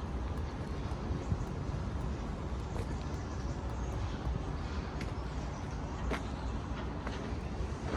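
Strong wind buffeting the microphone as a steady low rumble, with a few light clicks scattered through it.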